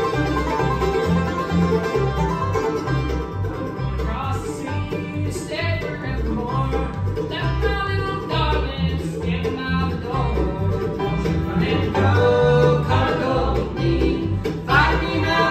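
Bluegrass band playing: banjo picking over guitar, with a steady, even bass line underneath.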